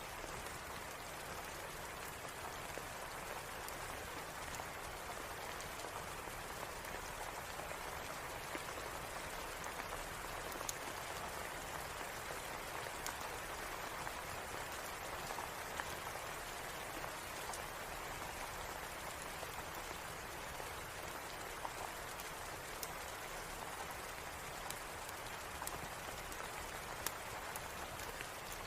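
Steady rain falling: an even hiss with scattered faint clicks.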